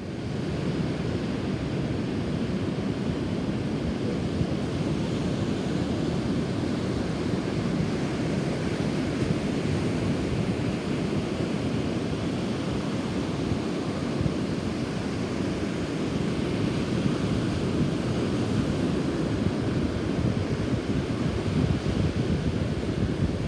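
Strong typhoon wind buffeting the microphone over the surf of a rough sea: a steady low rumble that swells in gusts, a little louder near the end.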